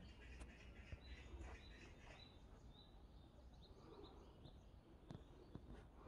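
Faint forest birdsong: a string of short high chirps through the first half, then a few quicker ones, over a soft background hush, with a few sharp clicks near the start and end.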